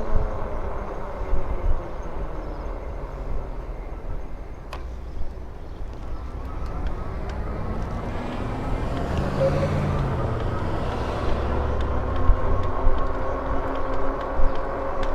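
Wind rumbling on the microphone of a moving electric bike, with a faint steady whine from its hub motor. A car passes by, swelling and fading between about eight and twelve seconds in.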